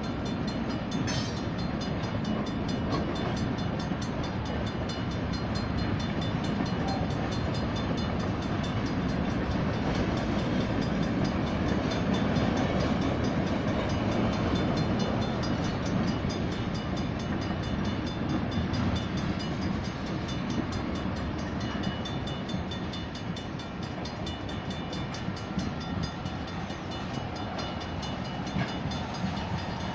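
Freight cars (boxcars, covered hoppers and tank cars) rolling steadily through a road crossing, their wheels running over the rails, while the crossing's Safetran mechanical bells ring rapidly. A brief sharp noise comes about a second in.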